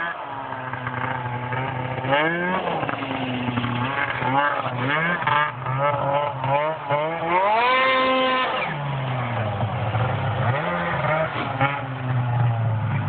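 2007 Arctic Cat M6 snowmobile's two-stroke engine, fitted with an HPG two-stage aftermarket exhaust, idling and being revved: quick blips about two seconds in and again around four to five seconds, one longer rev held for about a second near the middle, then settling back to idle.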